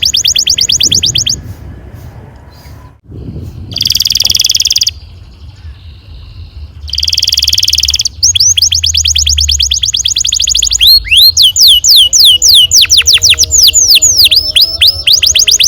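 Domestic canary singing rolling trills: fast repeated high notes, two short buzzy phrases in the middle, then a quicker roll that gives way to a run of separate falling whistled notes near the end.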